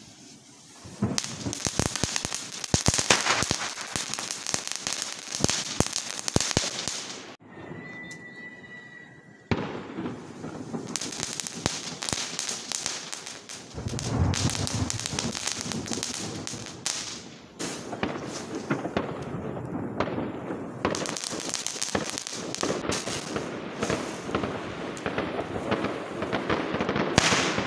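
Fireworks going off on the street: dense, rapid crackling and bangs, with a short lull about seven seconds in before the crackling starts again and carries on.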